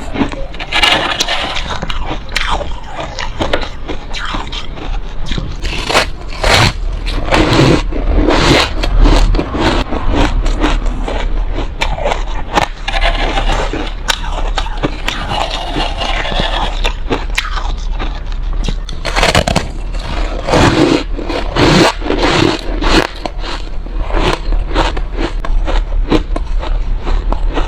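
Close-miked biting and chewing of refrozen soft ice: a run of irregular, gritty, sandy crunches, one bite after another.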